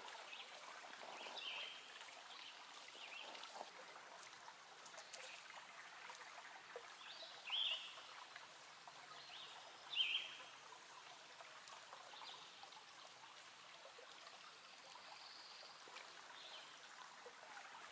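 Faint creek water running steadily, with a few short high bird chirps, the clearest about seven and a half and ten seconds in.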